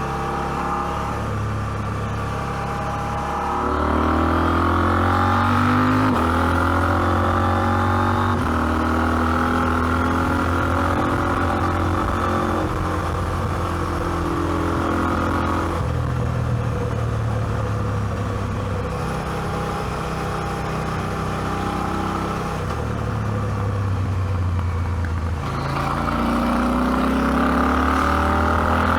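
KTM 790 Adventure's parallel-twin engine pulling under throttle, its pitch rising in several pulls with drops between them at the gear changes. It eases back a little past halfway, then pulls hard again near the end.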